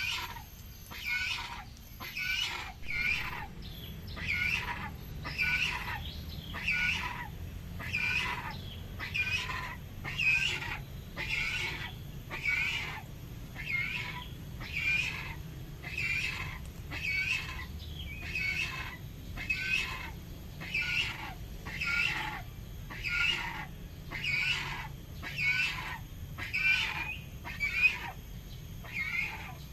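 Yellow-crested cockatoo calling over and over in an even rhythm, about one short harsh call a second.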